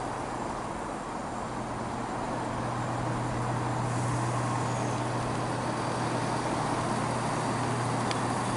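Diesel passenger train running at the station, a steady low engine hum under a broad rumble that grows a little louder about four seconds in.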